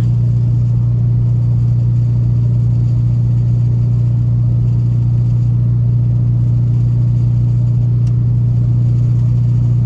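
C6 Corvette's V8, running through headers with an aftermarket cam, holding a steady deep drone at an even cruise.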